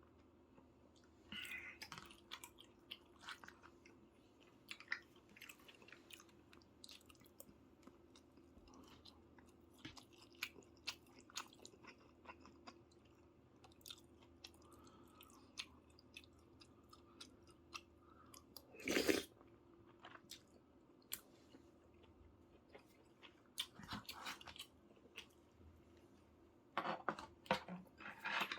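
A person chewing soy-sauce braised chicken in close-up, quietly, with many small wet smacks and clicks. There is a louder burst about two-thirds of the way through and a cluster of louder ones near the end.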